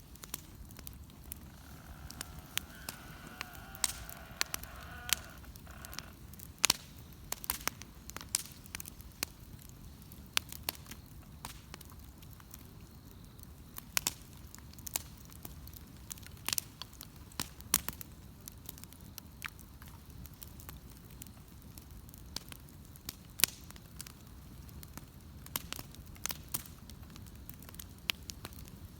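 Wood bonfire crackling, with sharp pops at irregular intervals over a steady low rumble.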